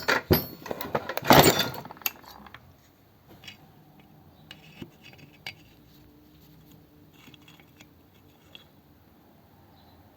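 Metal hand tools and small metal parts clinking and rattling, a cluster of loud clinks in the first couple of seconds, then a few faint small clicks.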